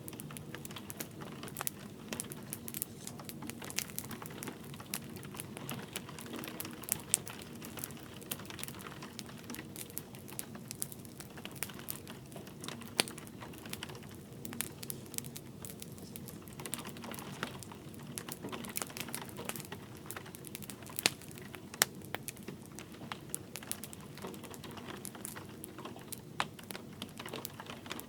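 Wood fire crackling in a fireplace: frequent irregular sharp pops and snaps, a few louder ones standing out, over a steady low rush with light rain beneath.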